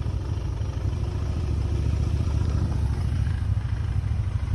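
Motorcycle running on the road, a steady low rumble with no change in pitch.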